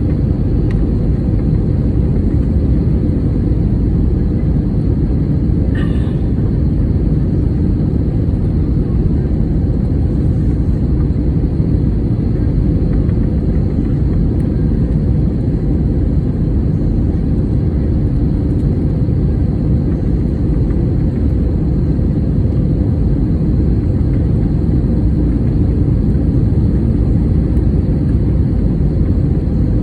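Steady, loud, low rumble of an airliner cabin in flight on approach to landing, the noise of engines and airflow over the fuselage.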